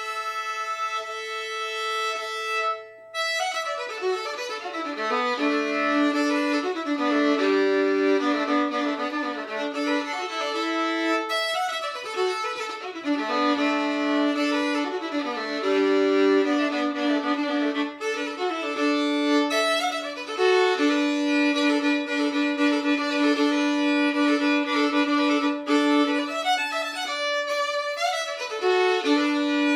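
Violin (a Hopf-stamped fiddle with a double bass bar, strung with steel strings) played solo with the bow: one note held and ringing for about three seconds, then, after a short break, a fiddle tune of moving notes over a sustained lower note.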